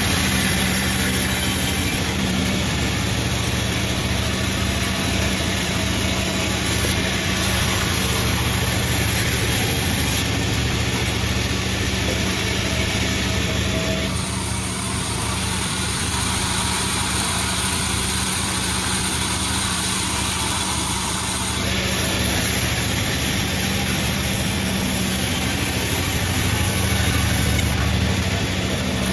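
Multi-blade sawmill machine running steadily: a constant mechanical hum with a steady low tone, which changes slightly in tone for several seconds midway.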